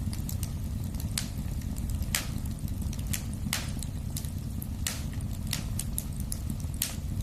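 Wood fire burning in a fireplace: a steady low rumble of flames with sharp crackles and pops at irregular intervals, about one a second.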